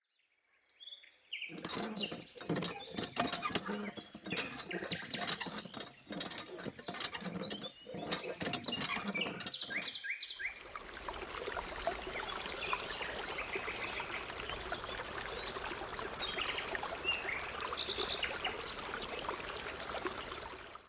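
Birds chirping over a steady background hiss. For the first half the chirps are mixed with many irregular sharp clicks and knocks, then the hiss carries on evenly.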